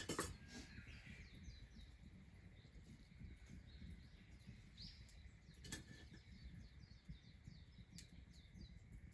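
Faint bird chirps over a quiet outdoor background, with a sharp click just after the start and another a little before six seconds in.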